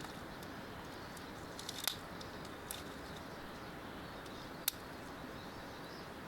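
Faint bird chirps over a steady outdoor hiss, with two sharp clicks, about two and about four and a half seconds in.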